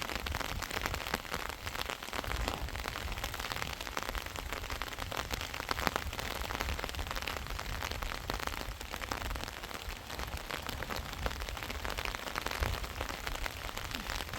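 Heavy rain falling steadily, a dense patter of individual drops over a low rumble.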